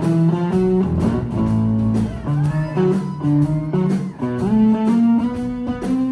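Live band music, an instrumental passage: an electric guitar plays a lead line with a few bent notes over bass and rhythm.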